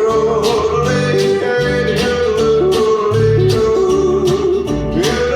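Western band music: a wordless, sustained high melody with leaps between notes, the song's yodel, carried over strummed acoustic guitar and a walking bass line.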